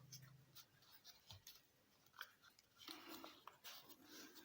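Faint, scattered crinkles and soft ticks of a sheet of origami paper being handled and folded over along a crease.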